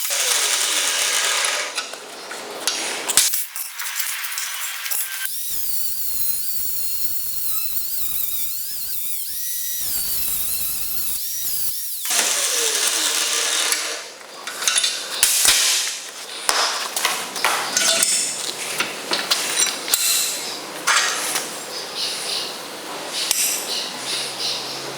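Workshop fabrication sounds: a handheld power tool runs and winds down with a falling whine twice, and in the second half metal parts are tapped and clink against each other in quick, irregular knocks.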